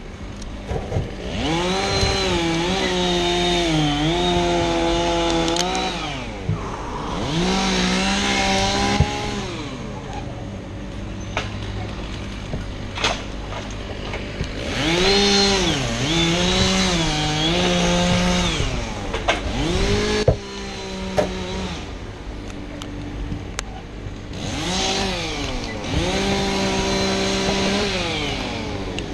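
Two-stroke chainsaw cutting wood in repeated bursts: it revs up to full throttle four times for a few seconds each, with a brief rev about two thirds through, its pitch dipping and recovering during each cut, and drops back to idle between them.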